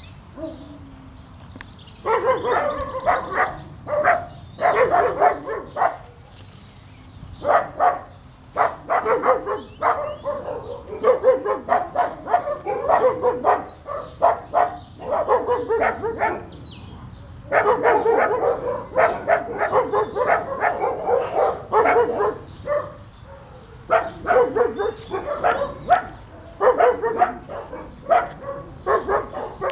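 Dachshund puppy barking and yapping in repeated bouts, starting about two seconds in and broken by short pauses.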